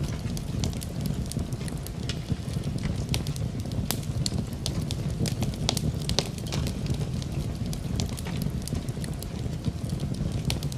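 Wood fire crackling in a fireplace, with frequent irregular sharp pops over a steady low rumble, blended with the hiss of rain.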